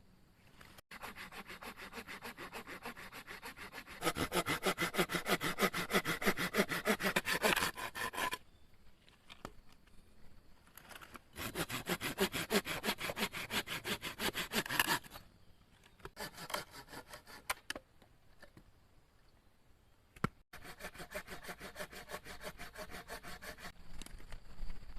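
Hand saw cutting through wood in several bouts of quick, even back-and-forth strokes, with short pauses between them.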